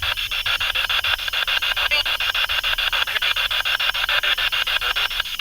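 Spirit box (a radio scanner) sweeping rapidly through stations: a steady, choppy static hiss broken about nine times a second, with brief snippets of radio sound among the static.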